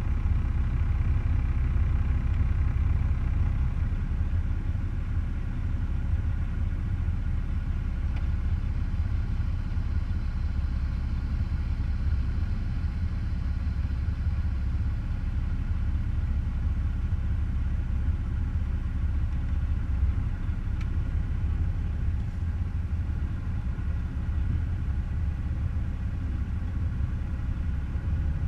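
Semi truck's diesel engine running steadily, a low rumble that holds one pitch throughout.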